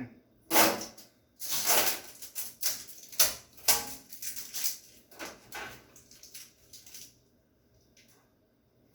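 A series of knocks, clatters and rustles from objects being handled, loudest in the first few seconds and dying away after about seven seconds.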